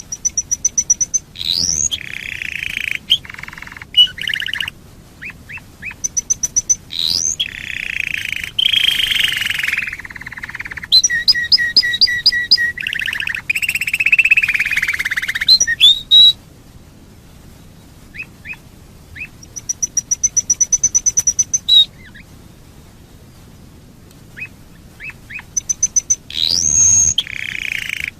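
Domestic canary singing: long phrases of rapid trills, quick repeated notes and high sweeping whistles. The song breaks off about two-thirds of the way through, leaving only a few scattered chirps, then returns in shorter trilled bursts.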